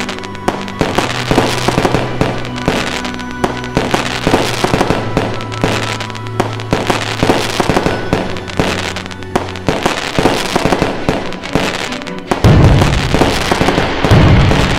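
Fireworks going off in quick succession, sharp bangs and crackles, over music with held notes. About twelve seconds in it all gets louder, with a heavy low rumble.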